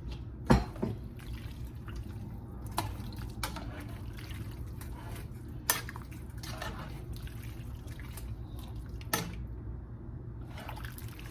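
A utensil knocking and clinking against a cooking pot a handful of times while food is stirred in sauce, over a steady low hum.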